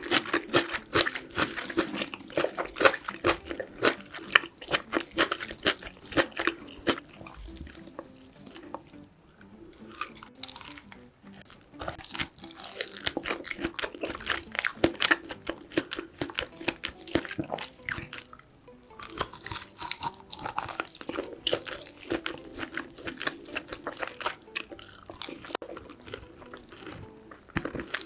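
Close-miked wet chewing and lip-smacking of braised pork back ribs with kimchi: rapid clicks and squelches in irregular runs, easing off briefly about eight seconds in and again near eighteen seconds.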